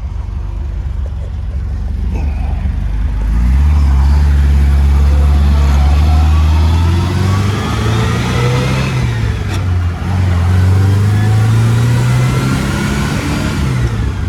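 1965 MGB's 1.8-litre four-cylinder engine accelerating through the gears, breathing through a newly fitted muffler. It picks up about three seconds in, climbs in pitch, drops at a gear change about ten seconds in, then climbs again and drops near the end.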